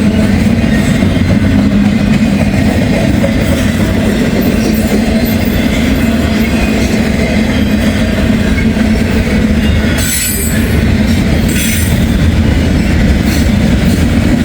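Freight train rolling past close by: a steady loud rumble of wheels and cars on the rails, with brief high-pitched wheel squeals about ten and twelve seconds in.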